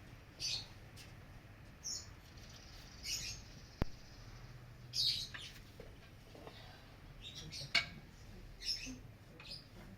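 Small birds chirping: short, high chirps repeating every second or so, with a sharp click about four seconds in and another near the end.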